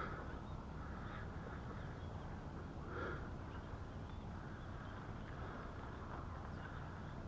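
Low, steady wind rumble on the microphone, with a few faint short sounds over it near the start, about a second in and about three seconds in.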